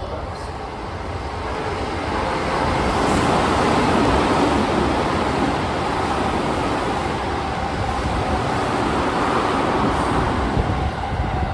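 Tokyo Metro 15000 series electric train running through the station at speed without stopping. A loud, steady rushing noise builds over the first few seconds, holds, then drops away at the very end.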